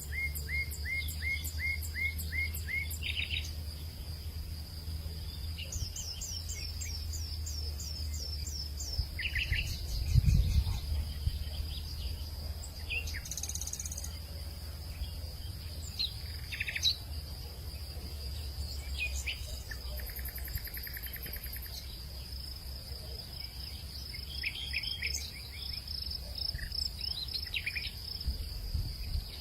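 Late-afternoon hillside ambience: insects keep up a steady high-pitched drone while birds call in quick runs of repeated chirps, over a low wind rumble. A single louder thump comes about ten seconds in.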